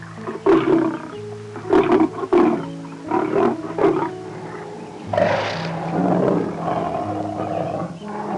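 A large animal's deep calls over background music: about five short calls in the first four seconds, then one longer call from about five seconds in.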